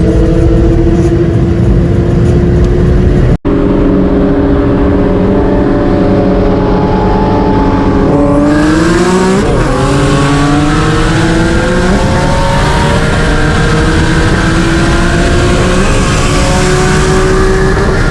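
Single-turbo Nissan 350Z's 3.5-litre V6 pulling hard under boost, its engine note climbing slowly through the revs with a gear change about eight to nine seconds in. The sound drops out for a split second a little over three seconds in.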